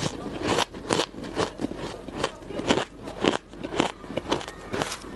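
Ice being bitten and chewed close to the microphone: a run of crisp, crackling crunches, about two a second.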